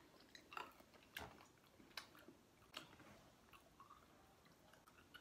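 Faint chewing of hard, sugar-coated fruit candies, with a few soft clicks spread through the quiet.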